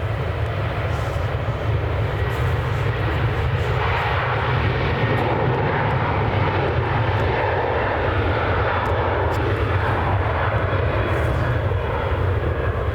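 Boeing 737 jet engines at take-off power as the airliner lifts off, a loud steady rumble that swells about four seconds in.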